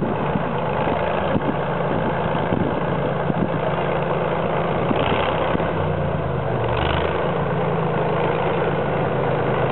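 YaMZ-236 V6 diesel engine in a ZIL-131 truck idling steadily.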